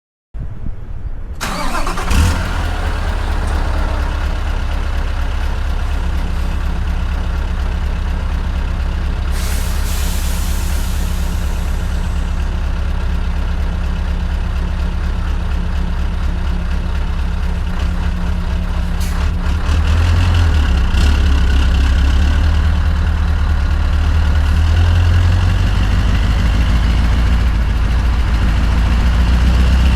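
Scania R580 V8 diesel truck engine with a straight-piped 8-inch exhaust starting up, catching about two seconds in, then idling steadily. It gets a little louder about twenty seconds in.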